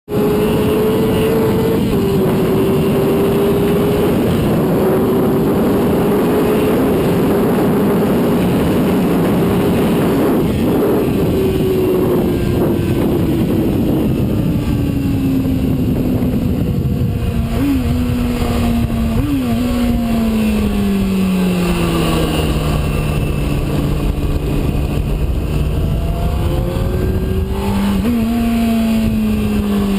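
Sport bike engine running at high revs under heavy wind rush. The engine note then falls steadily, with several short, sharp throttle blips about two-thirds of the way through and again near the end.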